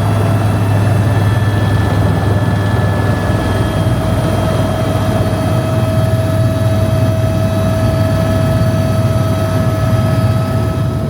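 Helicopter in flight: a steady low drone from the rotors with a steady high-pitched whine over it, the whine growing louder about three seconds in.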